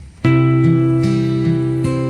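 Background music: acoustic guitar playing plucked notes, starting about a quarter second in.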